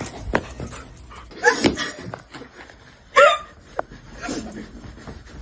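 A dog making short pitched calls, one about a second and a half in and a louder one about three seconds in, with scattered clicks and knocks between them.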